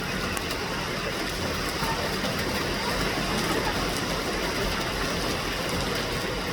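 Steady rain and street traffic noise: an even hiss with a low rumble underneath.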